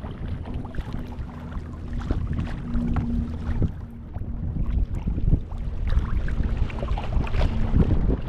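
Wind buffeting the microphone over water splashing and sloshing around a kayak at sea, with a faint steady hum through most of it.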